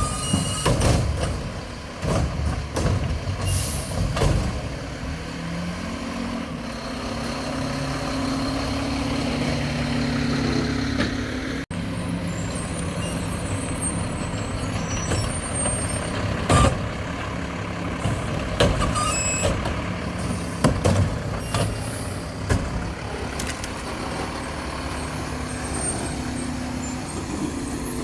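Mack LEU garbage truck with a McNeilus Meridian body working: the engine runs and revs up for several seconds, with sharp knocks and short air hisses scattered through.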